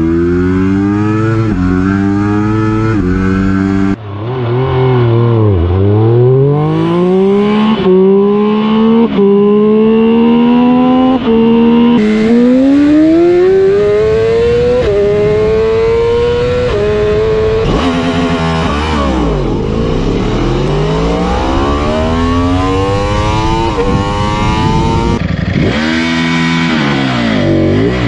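Superbike engines accelerating hard through the gears, the pitch climbing and dropping back at each upshift, with bikes passing by several times with a sharp fall in pitch. It is several separate recordings cut one after another.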